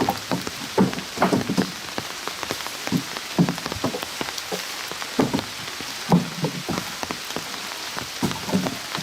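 Rain falling steadily, a constant hiss with many irregular heavier drops striking a surface close by.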